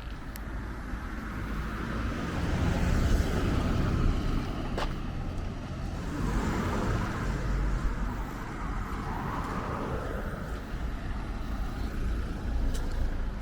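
Road traffic: cars driving past one after another, engine and tyre noise swelling and fading.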